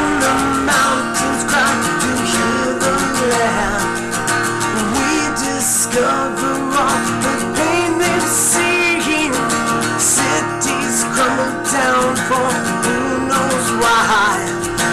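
Acoustic guitar strummed steadily, playing the song's accompaniment, with a wavering melody line above it.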